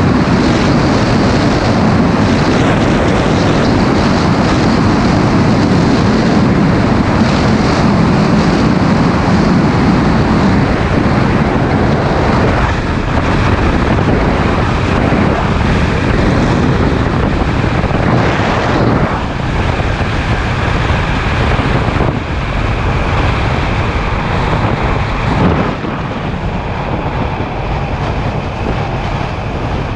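Motorcycle engine and wind rush on the microphone at riding speed, with a few brief dips in level that fit throttle changes, and a slight easing near the end.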